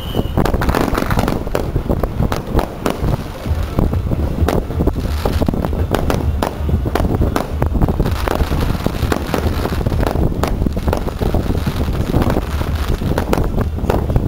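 Aerial fireworks going off in quick succession, a dense run of bangs and crackles, with wind rumbling on the microphone.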